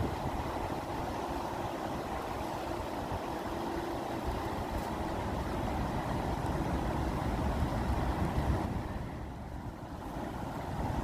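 Steady noise of moving water, heaviest in the low end, easing briefly about nine seconds in.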